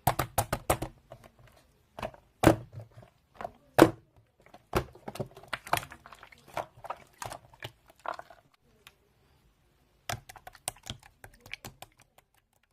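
Marbling slime being squeezed and pressed by hand, giving irregular sticky clicks and pops, with a pause about nine seconds in before a last short run of clicks.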